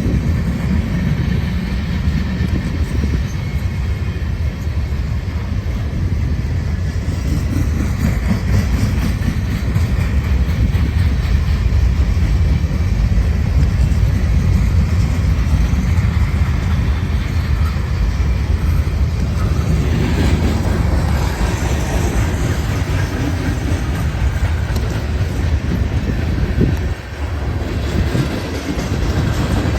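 CSX freight train's cars rolling past on the rails, a steady heavy rumble, with a harsher, brighter wheel-and-rail noise setting in about two-thirds of the way through.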